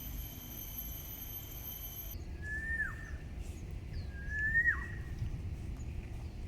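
A bird whistles twice, each call a short rising whistle that ends in a quick downward slide, over a low steady outdoor rumble. Before the calls, a steady high-pitched whine cuts off abruptly about two seconds in.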